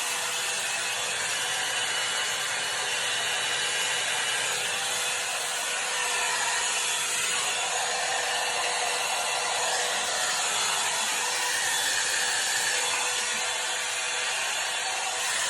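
Hot air brush (a hair dryer brush) blowing steadily, its fan making a rushing whoosh with a faint steady hum, as it is drawn through hair to dry it.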